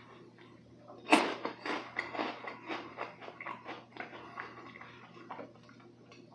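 Close-miked crunching of a crisp lemon meringue cookie: a sharp loud crack as it is bitten about a second in, then a quick run of brittle crackles as it is chewed, dying away after a few seconds.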